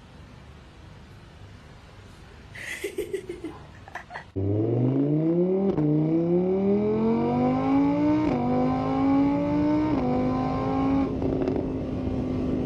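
A motor vehicle engine starts up suddenly and accelerates, its pitch climbing with a few small drops like gear changes, then holding steady.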